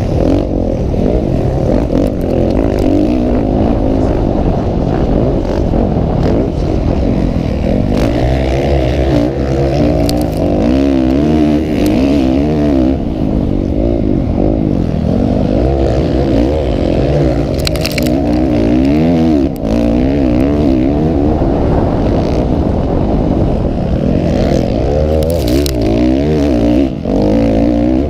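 Motocross motorcycle engines racing, revving up and falling off again and again as the riders accelerate and shift.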